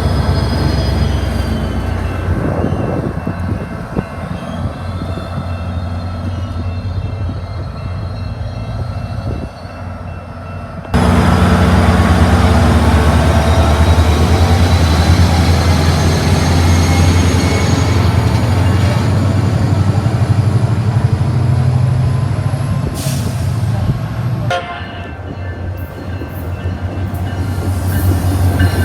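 Train running by: a steady deep engine rumble with rail and wheel noise, breaking off suddenly into a louder passage about eleven seconds in.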